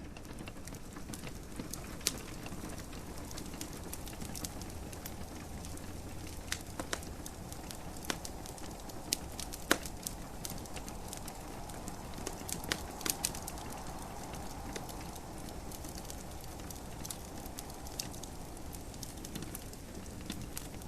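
Wood fire crackling in a fireplace, with irregular sharp pops (two louder ones about two and ten seconds in), over a steady soft hiss of gentle rain.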